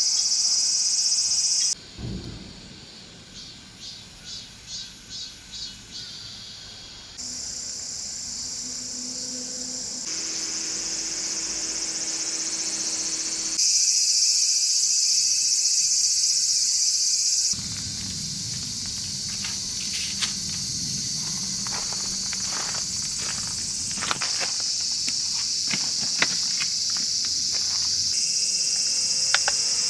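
Insects chirring, a dense high-pitched hiss, that jumps abruptly in level several times where the clips change. In the later part there are scattered light clicks and knocks.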